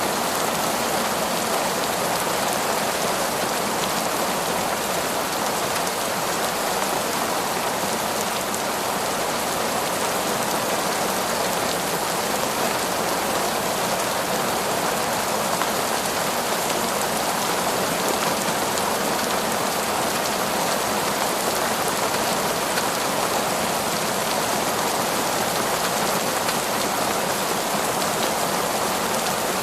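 Heavy, torrential rain falling steadily on a forest, a dense even hiss of drops with no thunder or breaks.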